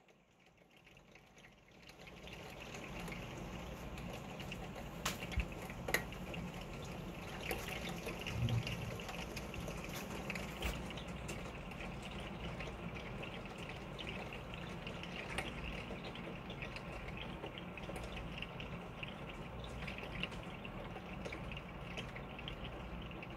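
Steady rain, fading in over the first two seconds, with scattered sharp drips ticking through it.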